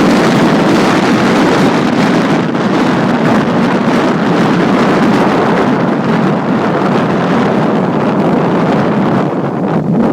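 Wind buffeting the microphone: a loud, rough rush with no engine tone in it.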